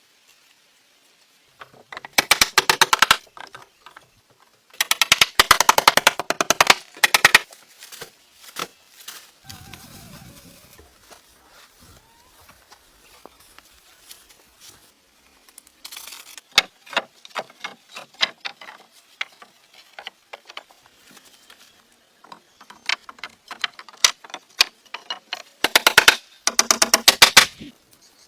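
Three bursts of a rapid, even rattle of impacts, each one to two seconds long: about two seconds in, from about five to seven seconds in, and near the end. Scattered single knocks and clicks fall between the bursts.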